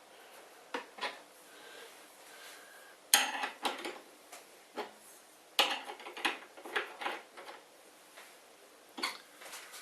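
Clinking and knocking of metal parts and tools being handled while adjusting the screw-in levelling feet of a CNC machine table, coming in a few short clusters of clicks and knocks.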